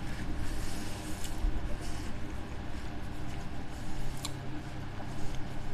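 A person chewing food close to the microphone, soft wet mouth sounds with a few short sharp clicks.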